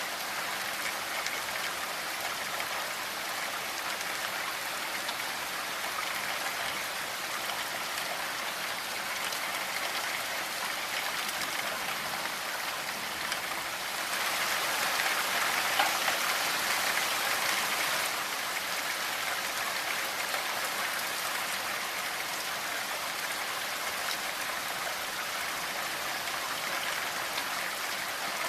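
Steady rainfall, a dense even patter of drops, swelling slightly heavier for a few seconds about halfway through.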